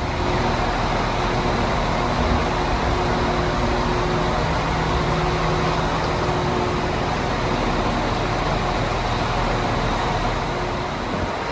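Irish Rail 22000 class diesel multiple-unit train running steadily: a constant rumble and rush with a few faint held engine tones underneath.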